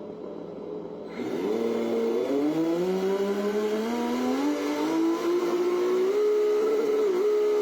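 Car engine sound revving up, rising smoothly in pitch for several seconds, then holding a high, steady note with a couple of brief dips near the end.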